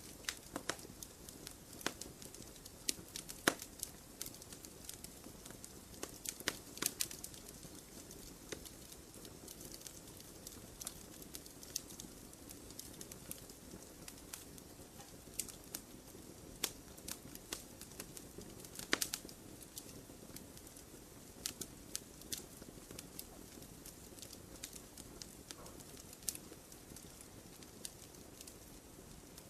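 Wood campfire crackling: irregular sharp pops and snaps over a soft, steady hiss of burning.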